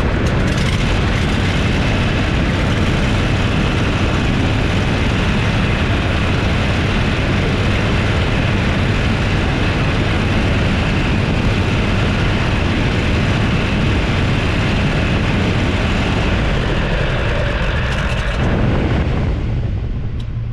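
Toro Z587L zero-turn mower running loud and steady close to the microphone, its engine and cooling fans going together, with the fans now working after a failed signal wire was repaired. The hiss eases off near the end.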